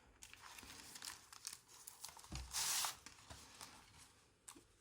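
Paper rustling and crinkling as the pages and envelope folder of a handmade paper journal are handled and turned, with scattered soft ticks and one louder burst of paper noise lasting about half a second, about halfway through.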